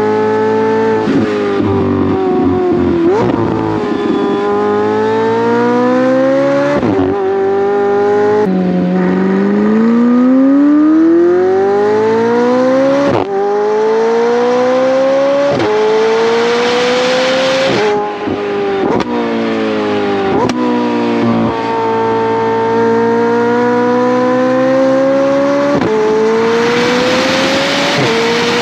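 McLaren 720S twin-turbo V8 through a Valvetronic Designs valved titanium exhaust with stock downpipes, accelerating hard through the gears. The pitch climbs steadily and drops back sharply at each upshift, about a dozen times.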